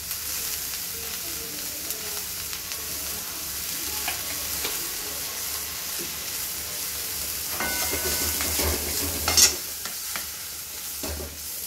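Ridge gourd pieces sizzling in hot oil in an aluminium kadai while a wooden spatula stirs and scrapes them against the pan. The scraping grows busier late on, with one louder scrape and knock about nine seconds in.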